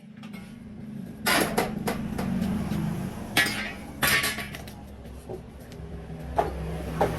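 Metal tools clanking and knocking on metal during mechanical repair work, several sharp strikes over a steady low machine hum that starts right at the beginning.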